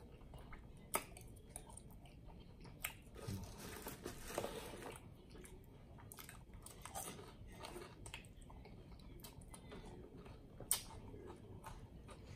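Close-miked chewing and mouth sounds of a person eating a loaded hot dog, with scattered soft clicks and smacks.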